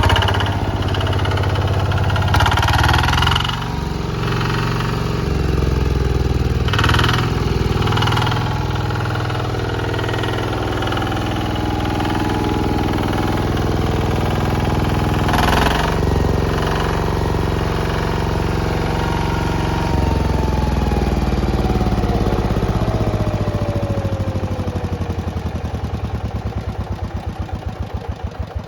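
Kubota EA11-NB single-cylinder diesel engine running steadily, with a few brief swells in the noise. In the last several seconds the engine speed falls and the individual firing beats become separately audible as it slows down.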